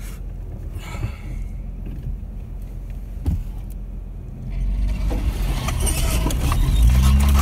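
Vehicle engine running low and steady, then revving up under load from about four and a half seconds in, with the pitch rising near the end, as the stuck vehicle is driven to get itself free.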